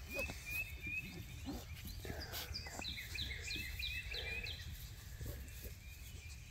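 A songbird singing over steady low background noise: a quick run of short chirps, then a regular series of about six short, falling whistled notes, roughly three a second.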